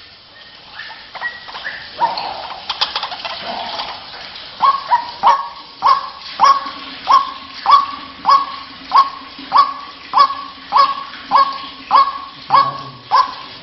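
White-breasted waterhen (ruak-ruak) calling: a few irregular notes, then from about four seconds in a steady series of sharp, repeated call notes, a little under two a second. This is the call used to lure the birds. A faint steady low hum sits under the second half.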